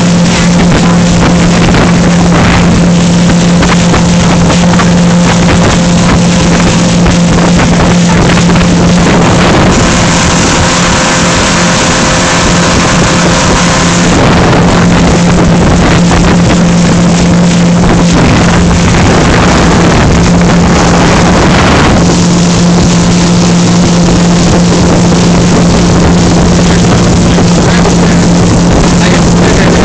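Boat engine running with a steady low drone under heavy wind and water noise, loud on the microphone. Between about ten and fourteen seconds in, the drone weakens and the hiss brightens for a few seconds.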